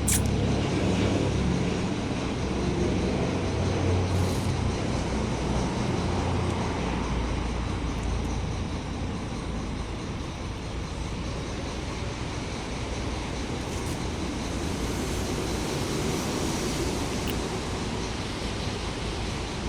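Crawler excavator's diesel engine running steadily, a low drone that eases a little quieter over the first half.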